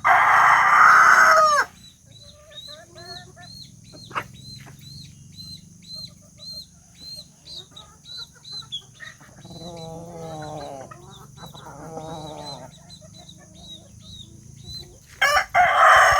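Rooster crowing loudly, once at the start and again near the end, with quieter clucking and high peeping from chickens in between.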